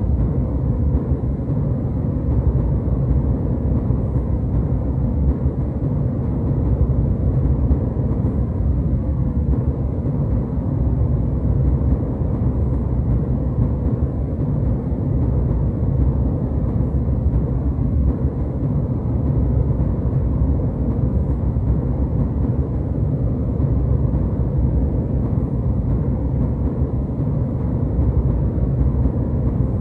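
Jet airliner cabin noise in cruise: a steady, deep rumble of engines and airflow with no change in level.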